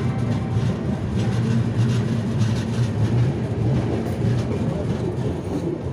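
Passenger train coach rolling out of a station at low speed, heard through the open coach door: a steady low rumble with faint, irregular clicks of the wheels over the rails.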